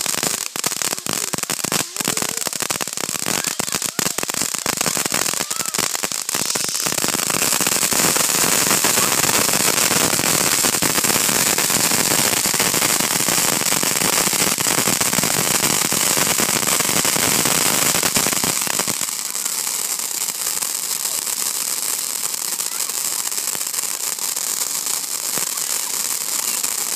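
Fireworks crackling and popping in a dense, rapid string, which stops about two-thirds of the way through and leaves a steady hiss.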